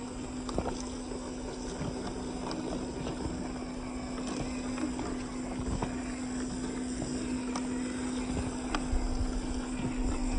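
Off-road RC car driving over rocks: a steady motor hum, with scattered clicks and knocks from tyres and chassis on stones.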